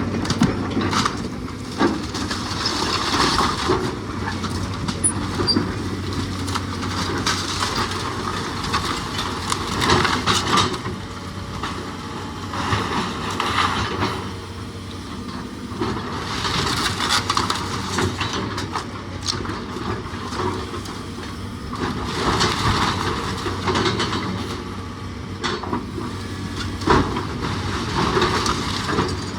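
Demolition of a wooden house by a machine: a steady engine hum under repeated swells of crunching, creaking and scraping, with scattered sharp cracks.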